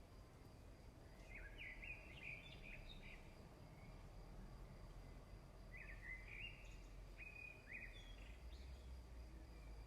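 Faint songbird chirping: two short bursts of quick, rising and falling notes, about a second in and again about six seconds in, over a low background rumble and a thin steady high tone.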